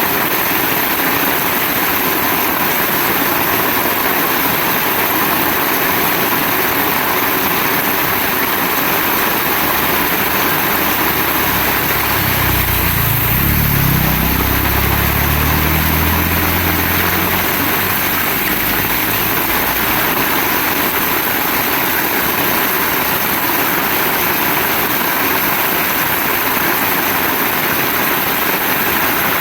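Heavy rain falling as a steady, loud hiss. About a third of the way in, a low engine hum swells and then fades again over several seconds.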